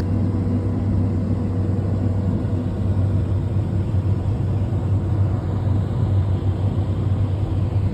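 Fendt tractor's diesel engine running steadily, a low even rumble.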